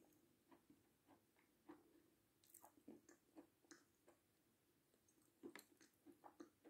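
Faint chewing of a full mouthful of dry meringue with the lips closed: scattered soft crunches and clicks, a cluster of them a little past five seconds in.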